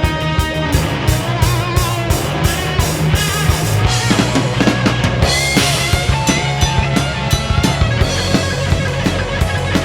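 Rock band playing live, instrumental: electric guitar, bass and drum kit, with a cymbal swell about halfway through.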